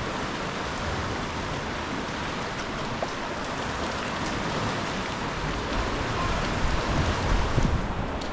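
Sea water sloshing and lapping around a sea kayak close under the cliffs: a steady, even hiss, with a low rumble growing louder in the last few seconds.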